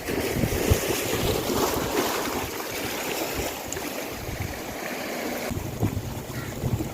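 Wind buffeting the microphone over the steady wash of heavy sea surf.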